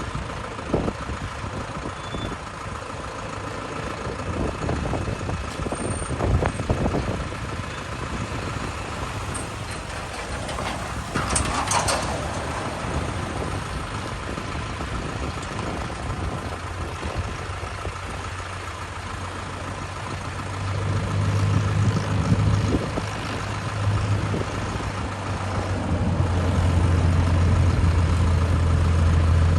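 Tractor engines running as tractors pass along the road. Near the end one engine gets louder with a steady low drone.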